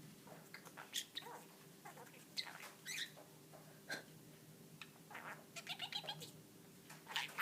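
Budgerigar chattering: a string of short, squeaky chirps and warbles, with a faint steady hum underneath.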